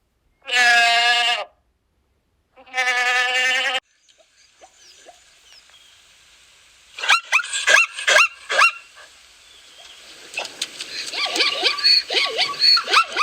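A goat bleats twice, each a long wavering cry. After a pause, birds start calling in short sharp cries, and these build into a chorus of many overlapping calls near the end.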